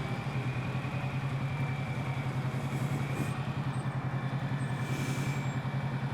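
Kawasaki Z650 parallel-twin motorcycle engine running at a steady, constant low engine speed with an even pulsing beat, heard from the rider's helmet.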